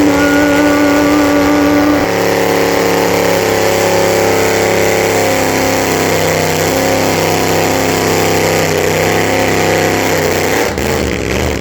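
Loud car engine running at a steady speed, an even drone with no rising rev, which drops away suddenly near the end.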